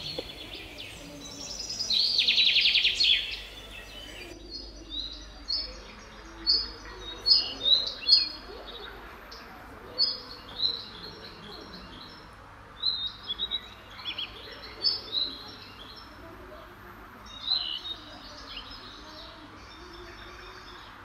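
Small birds chirping: short high chirps repeated at uneven intervals, with a louder, rapid buzzy trill about two seconds in.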